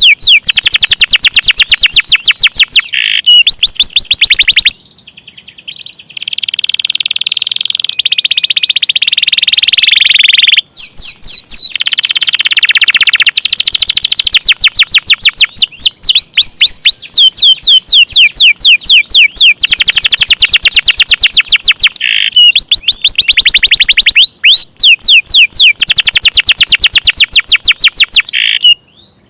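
Domestic canary singing loudly in fast runs of rapidly repeated sweeping chirps, alternating with long rolling trills. There is a brief lull about five seconds in and a short break near the end.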